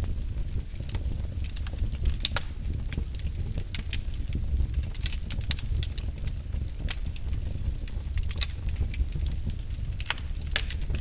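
Wood logs burning in a fireplace: a steady low rumble of flames with irregular sharp crackles and pops throughout.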